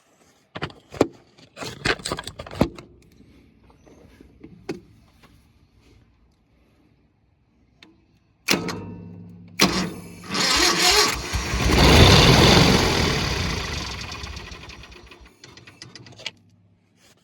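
Craftsman garden tractor's Kohler 18 hp twin-cylinder engine being started on gas sprayed into the intake, after a few clicks and knocks. About eight seconds in the starter cranks it, the engine catches and runs loudly for a few seconds, then fades away and dies.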